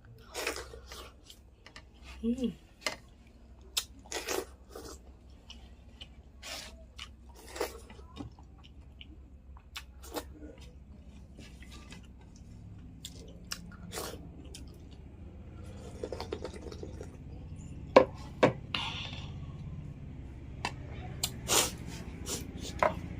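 Close-miked eating sounds: a person chewing meat and rice, with irregular wet clicks and smacks of the mouth, a few of them sharp and loud near the end.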